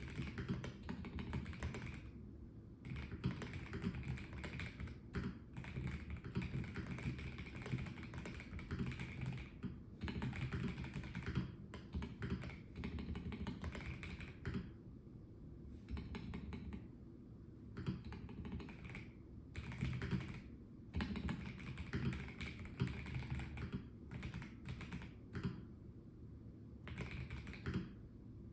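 Typing on a Melgeek Mojo84 plastic mechanical keyboard: quick runs of key clicks and thocks broken by short pauses.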